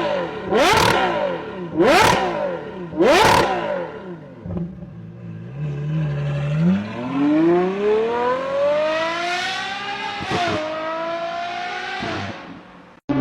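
V12 car engine revved in three sharp throttle blips about a second apart, then idling briefly before a long acceleration. The pitch climbs steadily, drops once at a gear change about ten seconds in, climbs again, and cuts off near the end.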